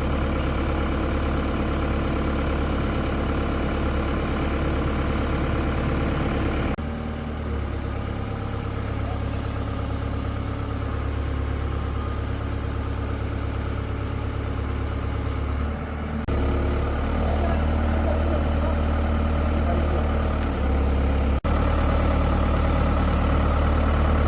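Heavy diesel engine of a bulldozer idling steadily, a deep low hum whose tone shifts abruptly a few times.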